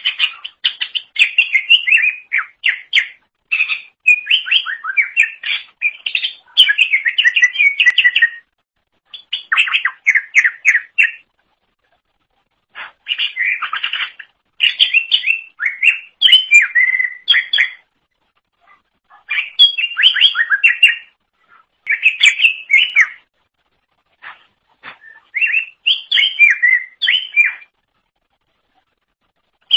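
Green leafbird (cucak ijo) singing loudly: fast runs of varied chirps and whistles in bursts of a few seconds, with brief pauses between phrases.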